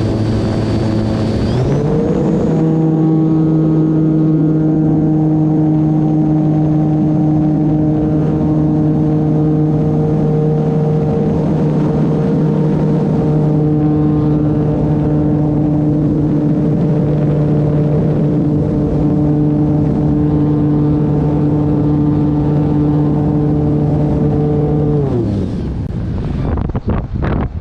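Electric motor and propeller of an E-flite Turbo Timber Evolution RC plane under power, with a high motor whine over the propeller hum. The pitch steps up about a second and a half in as the throttle opens, holds steady for a long run, then winds down near the end as the throttle comes back. Wind buffets the microphone in rapid pulses after that.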